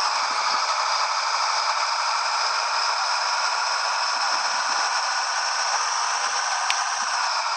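Steady, even road and running noise inside the cab of a moving Scania 113 truck.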